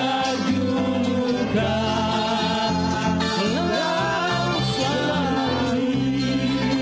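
A live band plays a song with a singer over a steady bass line, while an angklung ensemble of shaken bamboo rattles plays along.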